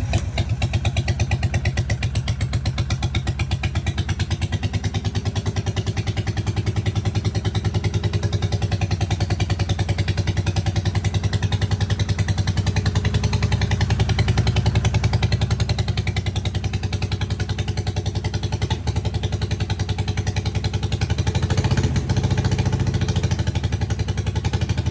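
Harley-Davidson Sportster 883 V-twin engine running steadily at idle just after starting, back to life on a new fuel pump after sitting for five years. There is a short rise in revs about 22 seconds in.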